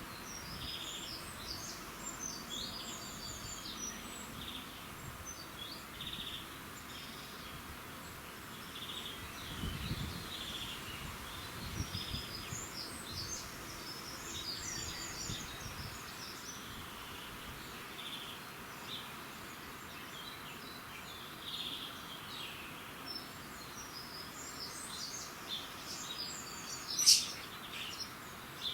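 Several small birds singing in a dawn chorus, with many quick, high chirps and trills over a steady background hiss. One sharp, loud chirp stands out near the end.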